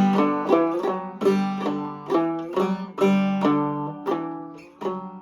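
Five-string banjo played clawhammer style, picking a dressed-up G-chord phrase: a quick run of struck notes that ring and decay, trailing off near the end.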